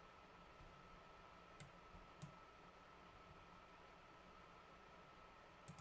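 Near silence with a few faint computer mouse clicks: two single clicks about a second and a half and two seconds in, and a quick double click near the end.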